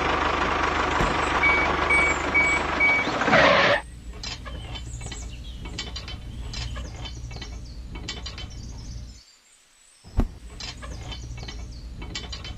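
Machinery running loudly with four short, evenly spaced beeps like a reversing alarm, then a quieter steady low hum with scattered clicks and one sharp knock.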